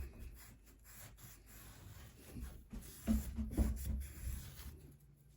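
Scrubbing pad rubbed down inside a pocketknife's blade channel to scour out built-up gunk: an uneven scratchy rubbing. There are louder knocks about three to four seconds in.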